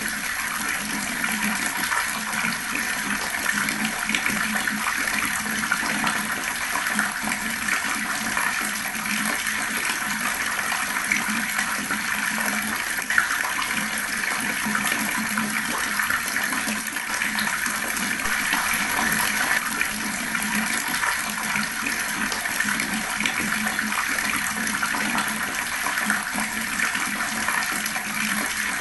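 Water flowing fast in a steady, unbroken rush and splash.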